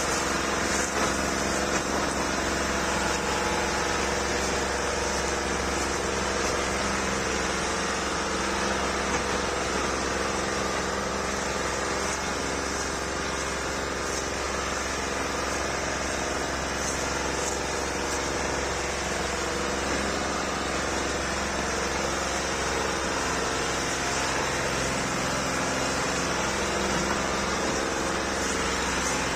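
Old Massey tractor engine running steadily at an even speed.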